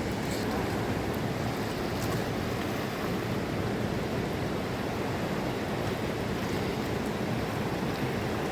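Steady rushing of a flowing mountain river.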